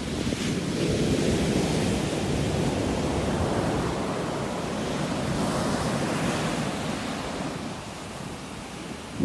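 Sea waves surging and washing in, swelling about a second in and ebbing near the end.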